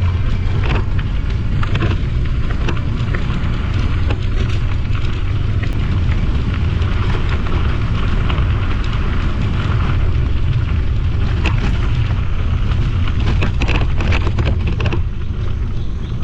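Wind buffeting the microphone of a moving e-bike as a steady low rumble, with scattered crackles from the tyres rolling over a cinder track.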